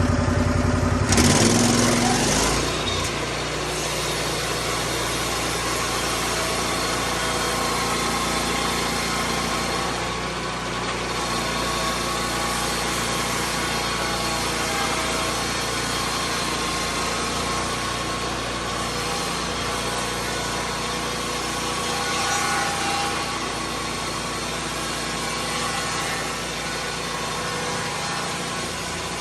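Lucas Mill swing-blade sawmill's petrol engine idling, then throttled up about a second in and running steadily at high speed as the circular blade saws through a white pine log.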